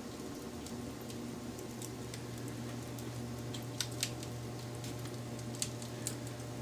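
Wood fire crackling: scattered small ticks and pops, with a few sharper pops about four seconds in and again near the end, over a steady low hum.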